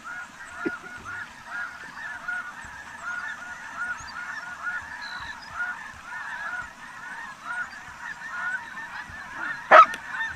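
A large flock of snow geese calling: many short, high honks overlapping without a break. Near the end there is one loud, sharp sound.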